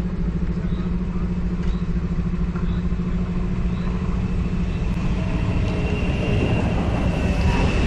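Diesel engine of a PESA Link (SA138) diesel multiple unit running steadily with a deep hum, growing louder near the end as a higher whine joins in, typical of the train pulling away.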